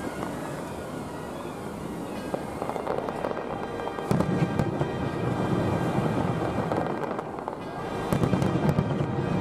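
Fireworks display: a dense run of bangs and crackling shells, growing louder about four seconds in and again near the end.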